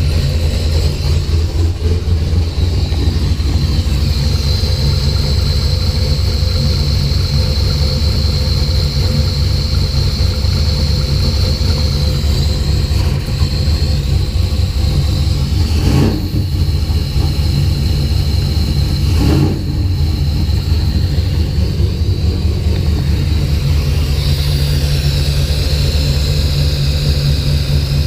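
Car engine being cranked steadily on the starter without settling into a run, with two sharp pops, one about 16 seconds in and another a few seconds later. The engine is running very rich and sneezing fuel.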